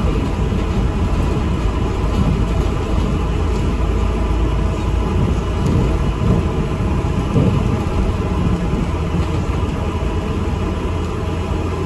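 Steady low rumble of an ADL Enviro 400 MMC double-decker bus's engine and running gear, heard from inside the bus.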